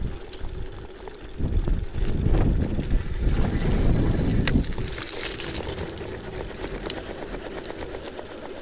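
Gravel bike's tyres crunching and rattling over a loose crushed-stone dirt road, with wind rumbling on the microphone. The rumble swells from about a second and a half in to about four and a half seconds, then settles into a steadier, quieter rolling noise.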